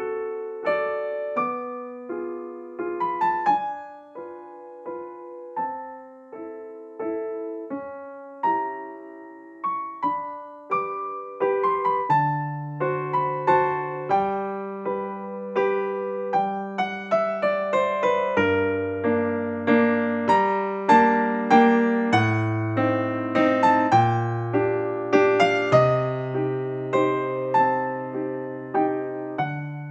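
Gentle background piano music: a simple melody of struck notes, joined by a bass line about twelve seconds in and growing fuller after that.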